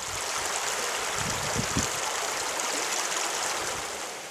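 Heavy rain falling on trees and grass, a steady loud hiss, with a few low bumps about a second and a half in. Near the end it eases into the quieter rush of a stream running over stones.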